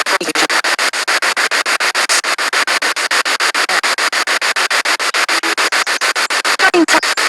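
Spirit box sweeping through radio stations: a rapid, regular chopping of static, about ten pulses a second, with brief garbled fragments of broadcast audio.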